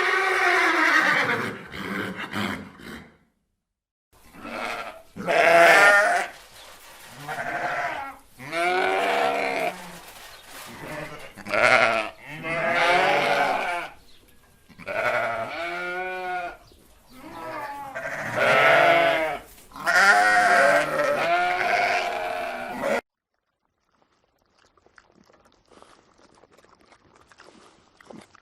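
Livestock bleating: about a dozen quavering cries in a row, each a second or two long, which cut off suddenly about 23 seconds in, leaving only faint background noise.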